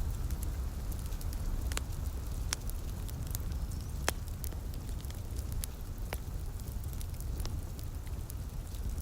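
Wood fire crackling in a fireplace: sharp, irregular pops about once a second or less over a steady low rumble of the burning fire.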